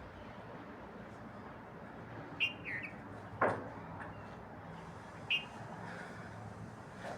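A small bird chirping short, falling two-note calls a few times over a steady low background noise, with one sharp knock about three and a half seconds in.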